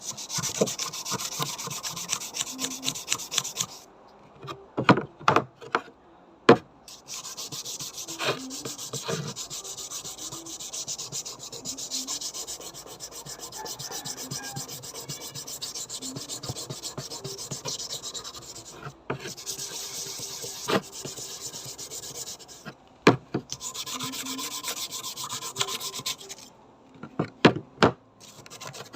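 Fast back-and-forth abrasive rubbing on a bayonet scabbard, in long stretches of steady strokes. A few sharp knocks come about five and six seconds in and again near the end.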